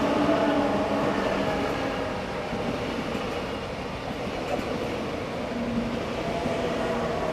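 Electric train running past at close range: a steady rush of wheel and running noise with a low humming tone from the traction equipment.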